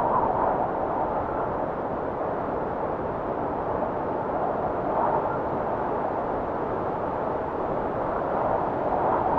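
Arctic blizzard wind blowing steadily, swelling in gusts about every five seconds.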